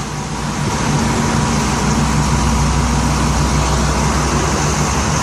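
Vehicle engine running steadily, a low hum that steps up a little about a second in.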